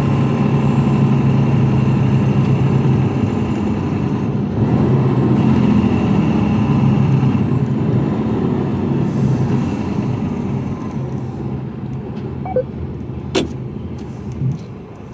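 Mercedes-Benz Actros truck's diesel engine heard from inside the cab, running steadily with a low hum, then quieter as the truck slows in the last few seconds. A few sharp clicks come near the end.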